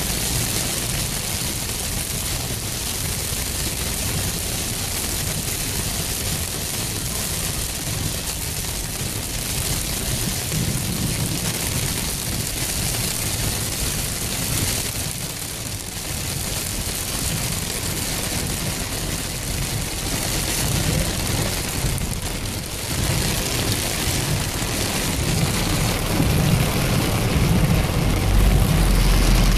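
Heavy rain falling as a steady loud hiss, with a low rumble underneath that grows louder near the end.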